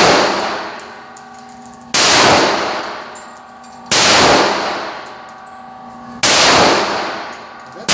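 Four shots from a .40-calibre Glock pistol, spaced about two seconds apart, each followed by a long ringing echo that dies away before the next; the last comes right at the end.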